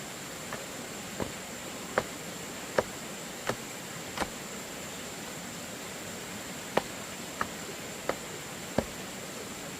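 Sharp knocks of a tool striking bamboo, about one every 0.7 seconds, in two runs with a pause in the middle. Behind them is a steady high insect drone.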